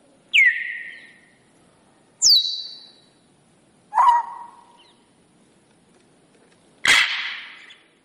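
African grey parrot whistles and calls, played four times as sounds for a talking bird to copy. Each call starts sharply and slides down in pitch before fading out, and the last one is harsher and raspier.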